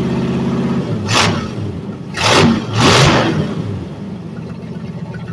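Race car engine coming to life after sitting unstarted for a while: three loud blips of the throttle about one, two and three seconds in, then settling to a steady idle.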